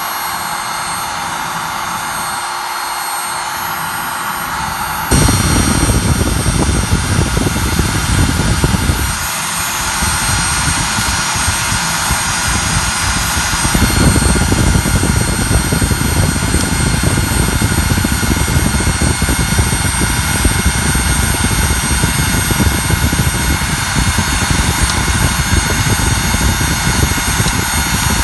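Fireplace fire burning hard on freshly added firewood, a steady rushing noise. A deeper rumble comes in suddenly about five seconds in, eases briefly around nine seconds, and returns fuller from about fourteen seconds.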